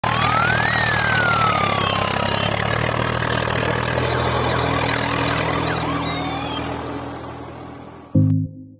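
Engine running steadily, with chirping and gliding whistles over it, fading out over the last couple of seconds. A short musical chord sounds near the end.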